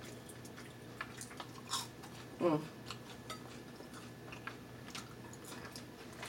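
Close-up chewing of seasoned French fries, with scattered small wet mouth clicks and lip smacks and a short hummed 'mm' about two and a half seconds in.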